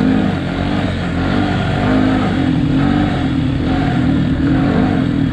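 Small four-stroke kids' dirt bike engines (Yamaha TTR) being ridden, with the revs rising and falling over and over as the riders work the throttle.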